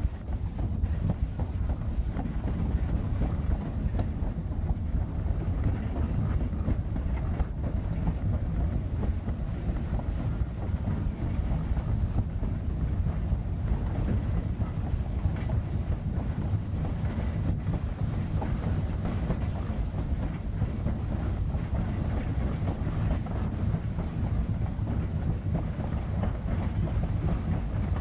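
East Broad Top narrow-gauge train hauled by steam locomotive No. 15 rolling along, a steady low rumble of wheels on rail with scattered clicks and clatter over the rail joints.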